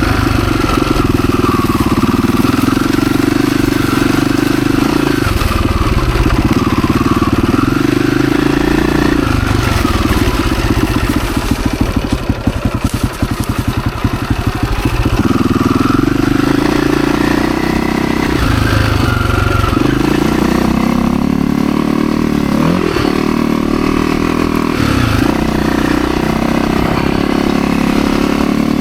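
Husaberg FE 350 dirt bike engine running and being revved up and down, with a stretch of rougher, lower running around the middle.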